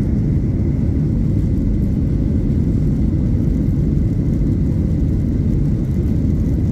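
Steady low rumble of a jet airliner's engines during takeoff, with a faint steady whine on top. The level stays even throughout.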